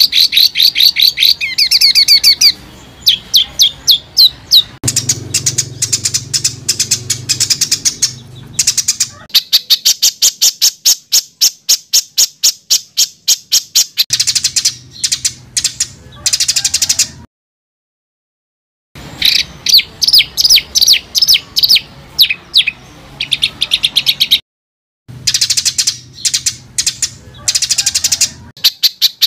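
Songbird singing dense, harsh rapid-fire phrases: fast runs of sharp repeated notes and trills, the 'tembakan rapat dan kasar' used as tutor song for contest birds. The song cuts out twice briefly, after a little over half the time and again later, like spliced recordings.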